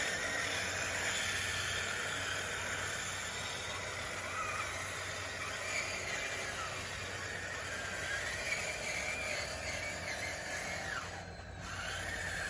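Radio-controlled bulldozer running, its small motors whining and wavering in pitch over a steady hiss as it pushes dirt.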